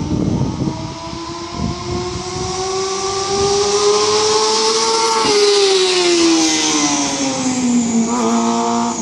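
Honda CBR250RR MC22's 250cc inline-four engine at very high revs, its high-pitched note climbing steadily for about five seconds, then falling away.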